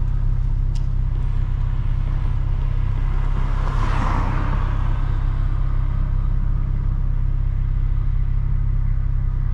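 Straight-piped BMW N55 turbocharged inline-six in an E92 335i, a steady low exhaust drone while the car cruises. A brief rush of noise swells and fades about four seconds in.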